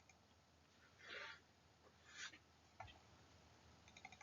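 Near silence, broken by two brief faint hisses about a second apart and a soft click near the three-second mark.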